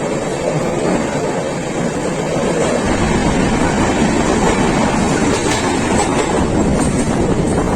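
Moving train running on the track: a steady rumble that grows heavier about three seconds in, with a few faint clicks of the wheels over the rails.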